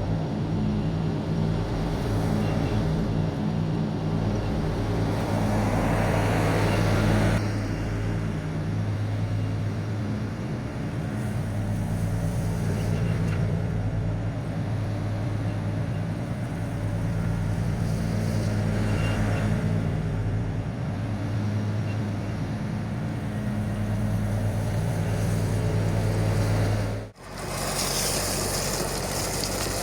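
Diesel engine of an LS MT357 compact tractor running steadily at working speed, with several swells of rougher noise over the engine. Near the end the sound drops out suddenly and comes back hissier, with less engine tone.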